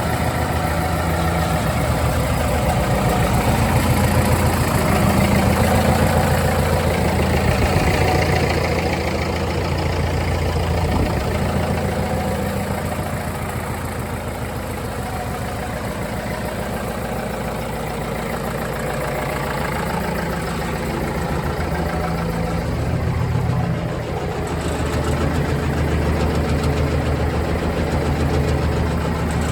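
1955 Massey-Harris 44 Special tractor engine idling steadily, its level swelling and easing a little.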